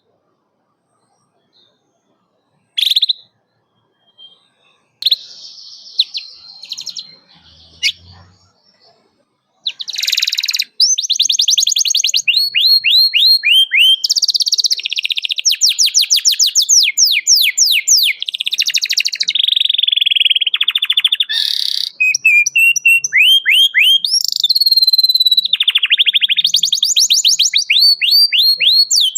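Domestic canary singing: a few short chirps with pauses, then from about a third of the way in a continuous run of fast trills and rolls of rapidly repeated falling notes.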